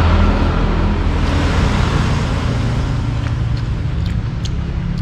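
Road traffic going by, with a low engine rumble that is loudest near the start and then settles into a steady hum. A few light clicks come in the second half.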